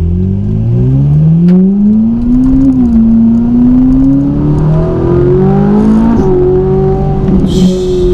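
Ferrari 458's V8 through a Capristo exhaust, accelerating with its note rising. It shifts up about three seconds in, climbs again, changes once more about six seconds in, then runs at a steady pitch.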